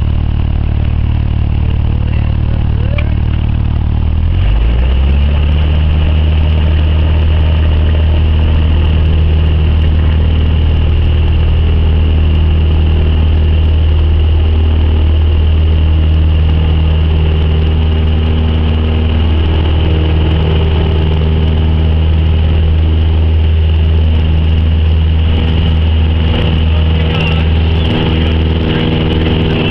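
Cessna 172's piston engine and propeller running loud and steady as heard in the cabin, the engine's pitch shifting about four seconds in and then holding.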